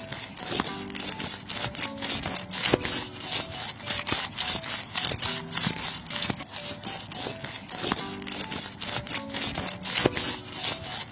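Rhythmic hand scraping, about three to four strokes a second, like something being rubbed or sanded back and forth.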